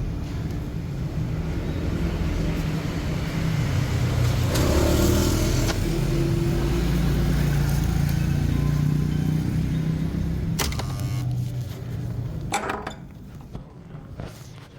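Steady low rumble and hum of a vehicle in motion. It grows louder through the middle, then falls away a couple of seconds before the end, with a few sharp clicks.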